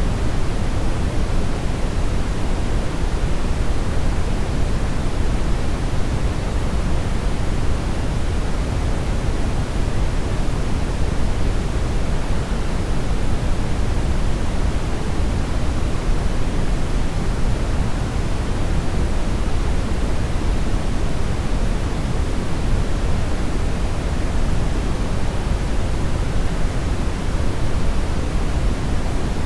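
Steady brown noise: an even, unchanging hiss weighted toward the low end, like a deep rumble.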